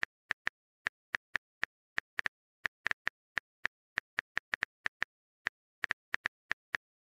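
Smartphone keyboard typing sound effect: short, identical tap clicks at an uneven pace of about four a second.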